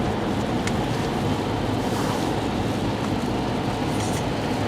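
Steady road and tyre rumble inside a car driving on a snowy, slushy highway.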